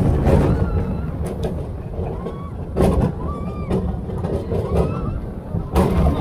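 Alpina Bahn steel roller coaster train running along the track, a loud steady rumble with wind buffeting the microphone, and voices calling out over it. There are a couple of sharp knocks, about three seconds in and again near the end.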